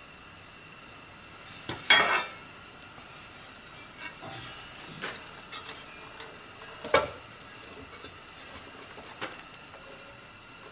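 Metal parts of a forge blower being handled and adjusted by hand: a few sharp metallic clicks and knocks, the two loudest about two and seven seconds in, over a faint steady hiss.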